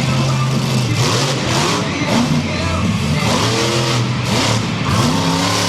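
Monster truck engine revving repeatedly, its pitch rising and falling in surges over a broad roar of noise.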